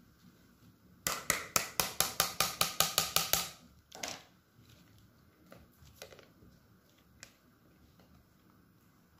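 A kitchen utensil knocking rapidly against a dish, about a dozen sharp strikes at roughly five a second, then one duller knock and a few light clinks.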